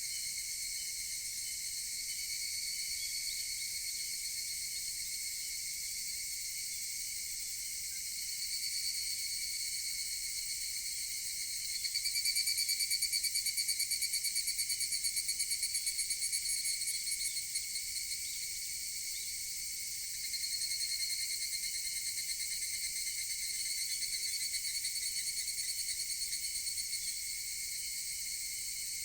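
Evening cicadas (higurashi) singing: a steady, high-pitched insect chorus, over which a nearer cicada's rapidly pulsing call swells up twice, each call lasting several seconds before it fades.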